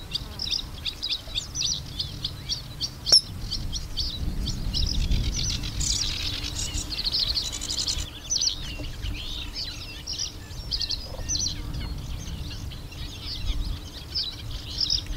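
Small birds singing and calling, a steady run of short high notes several a second with a denser trill about six seconds in. A single sharp click about three seconds in, over a low rumble.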